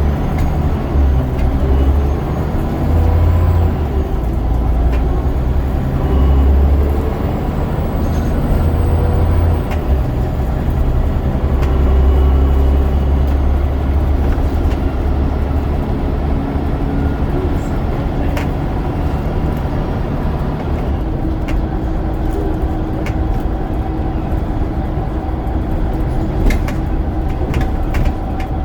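Scania DC9 9.0-litre five-cylinder diesel of a Scania N94UD double-decker bus working under load through its ZF Ecomat automatic gearbox. The engine note swells and eases several times in the first half, then settles into a steadier run with a slowly rising pitch, with a few light rattles near the end.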